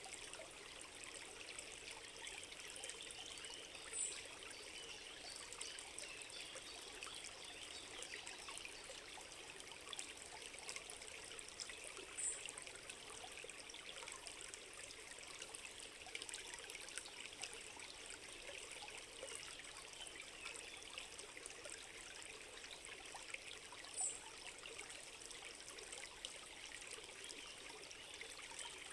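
Small stream trickling steadily in a forest. Three brief high chirps stand out about four, twelve and twenty-four seconds in.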